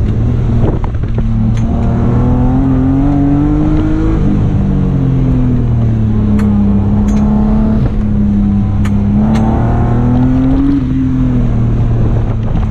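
Older BMW's engine heard from inside the cabin while driven hard on an autocross course, revving up and easing off: the pitch climbs for a couple of seconds, falls back and holds, then climbs and falls again near the end. A few sharp clicks sound over it.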